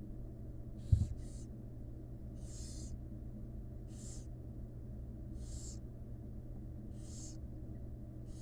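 Barn owl chicks giving their rasping, hissing begging calls in the nest box, short calls about every one and a half seconds. A single loud thump about a second in, with a steady low hum underneath.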